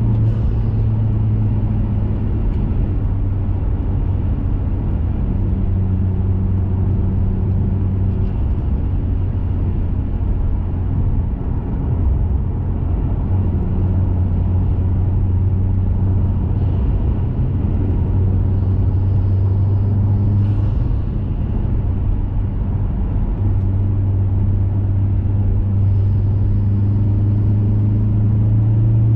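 2021 Mazda 3 Turbo's turbocharged 2.5-litre four-cylinder, heard through a CorkSport cat-back exhaust, cruising at steady low revs with a deep, even drone over road noise. Its pitch wavers a little and climbs slightly near the end.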